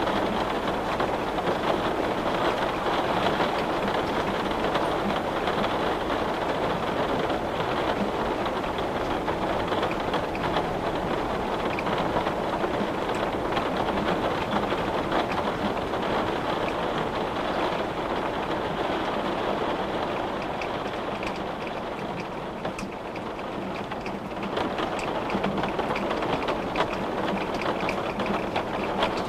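Steady rain falling on a window, a dense even wash of many fine drop ticks that eases briefly about two-thirds of the way through and then picks up again.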